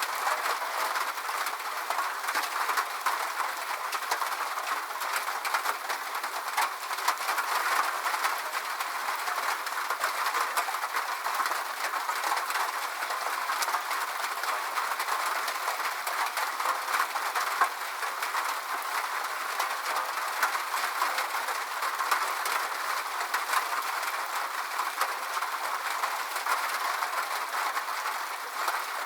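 Steady rain falling: an even hiss with a dense patter of small drop ticks, and no deep sound beneath it.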